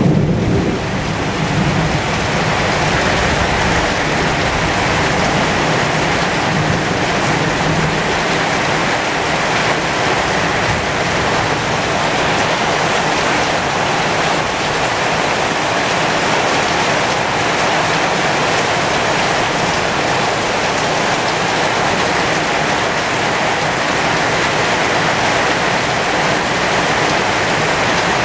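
Heavy rain pouring steadily onto the leaves and blossoms of a pomegranate tree, an even hiss of countless drops. A low rumble sits under it in the first several seconds.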